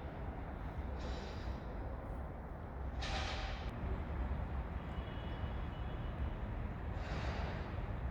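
Steady low background rumble with three short hissing swells, about a second, three seconds and seven seconds in, the middle one the loudest.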